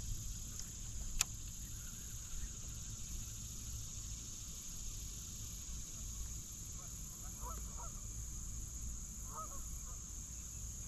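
Faint distant bird calls in two short bouts, over a steady low rumble and a steady high hiss, with a single click about a second in.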